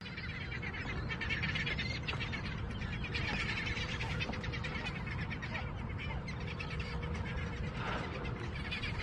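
Many birds chirping in quick, dense calls, over a steady low rumble.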